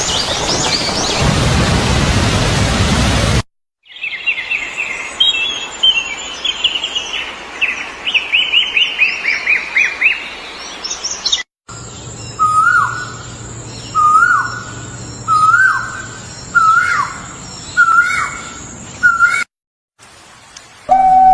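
A chain of separate nature recordings. It opens with rain. After a brief cut there is rapid bird chirping, a quick run of short falling notes. After another cut a bird repeats a short call six times, about every second and a half, over a faint steady high whine.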